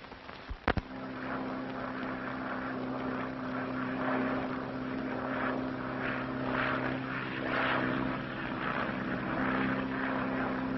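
Propeller airplane engine running steadily, a low drone with a rougher upper layer that swells and eases. It cuts in abruptly after a click just under a second in.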